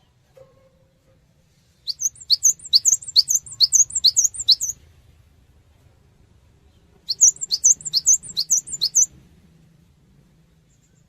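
A cinereous tit (gelatik batu) singing two phrases of rapidly repeated, high, sweeping whistled notes, the first about three seconds long and the second about two, with a pause between them.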